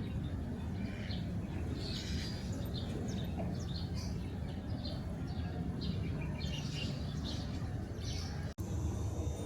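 Small birds chirping in quick, repeated short calls over a steady low background rumble, cut by a sudden brief dropout near the end.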